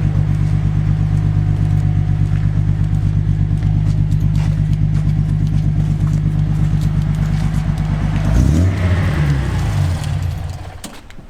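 Nissan Skyline Kenmeri's engine idling with an even pulsing beat, then a brief change in pitch about eight seconds in, after which it dies away and stops near the end.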